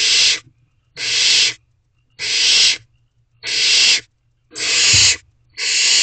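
Barn owlets giving harsh, hissing begging calls: a rasping hiss of about half a second, repeated evenly about once a second, six times.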